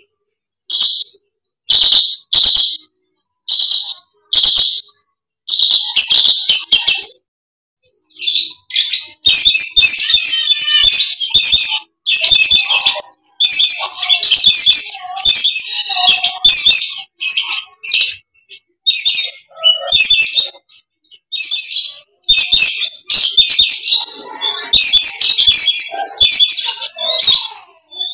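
Dusky lories giving loud, harsh screeching calls: short separate shrieks at first, then long near-continuous runs of screeches from about nine seconds in.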